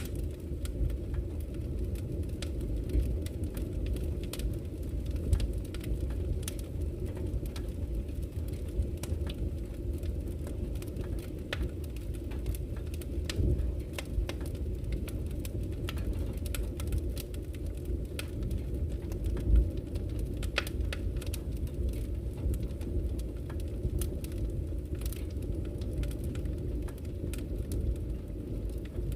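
Campfire crackling, with frequent irregular sharp pops and snaps, over a steady low rush of flowing river water.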